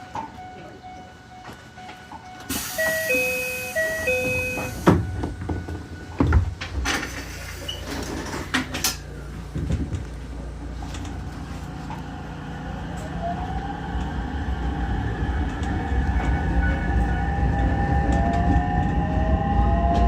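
Ichibata Electric Railway 7000 series electric train: a short stepped two-tone chime sounds about three seconds in, a few clunks follow, and then the train pulls away, its rumble building and the motor whine rising steadily in pitch as it accelerates.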